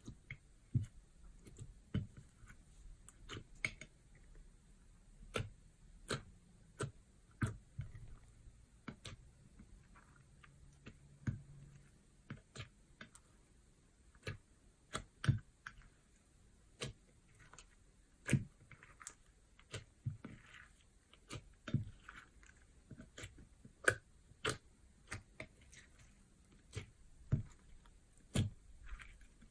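Slime being worked by hand, giving irregular sharp clicks and pops, about one to three a second.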